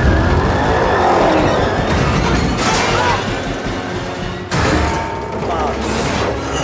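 Action-film car-chase soundtrack: a music score mixed with mechanical crashing and booming effects, with sudden loud hits near the middle and toward the end.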